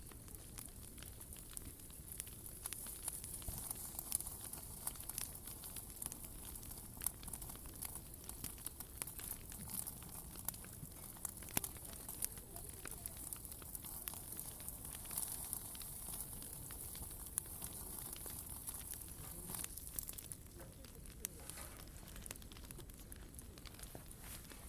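Wood fire crackling in a small fire pit: irregular sharp pops and snaps over a steady high hiss.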